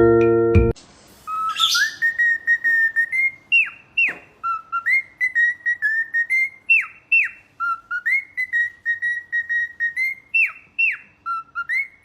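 Cockatiel whistling a tune in clear, repeated notes with quick downward swoops between them. A short bit of chiming, vibraphone-like music cuts off less than a second in.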